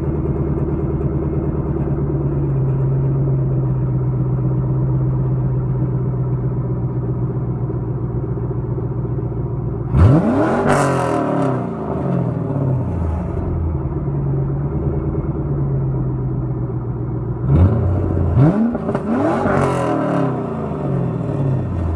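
2000 Chevrolet Camaro Z28's 5.7-litre LS1 V8 idling through a Flowmaster cat-back exhaust, revved once about halfway through and twice in quick succession near the end. There is a rattle from the muffler, which has fallen apart inside.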